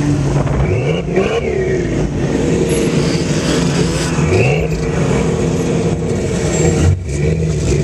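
Off-road vehicle engine running, revved twice: the pitch rises briefly about a second in and again about four and a half seconds in.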